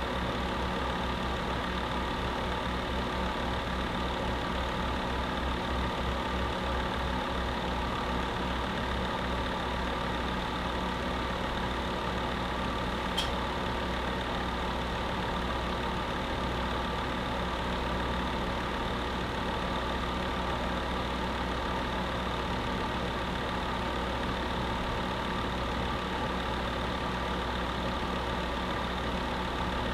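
Space heater running steadily: an even hum and whir from its fan and motor, with several held tones under the rush of air. A single short tick about halfway through.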